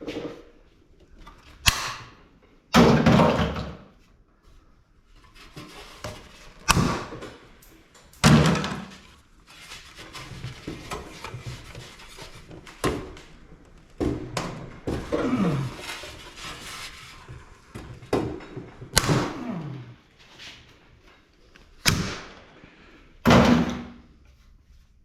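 Heavy thunks and knocks from scrap parts of an air-conditioning unit being worked apart, about a dozen irregular blows. Some last longer, and some leave a ringing tone that falls in pitch.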